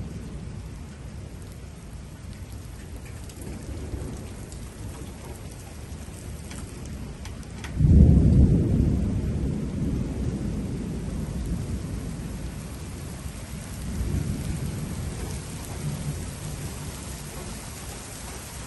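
Steady rain falling, with a sudden loud clap of thunder about eight seconds in that rumbles and slowly fades, and a weaker roll of thunder a few seconds later.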